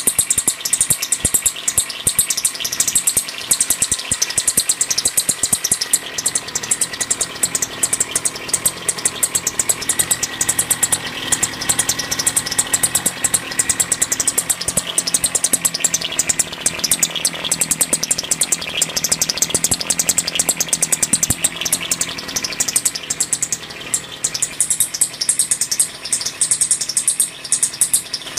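Carver MHT-3.8S outboard motor running steadily, its exhaust gases bubbling out under the water in a rapid, even pulsing.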